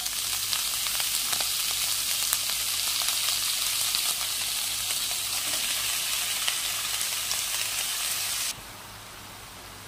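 Chopped banana flower sizzling in hot oil in a kadai, with scattered small crackles. The sizzle drops suddenly to a fainter hiss near the end.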